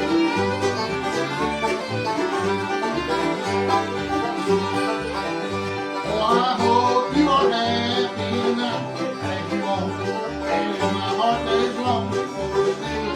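Bluegrass band playing an instrumental break: banjo picking over strummed guitar, with a bass note on each beat and a fiddle.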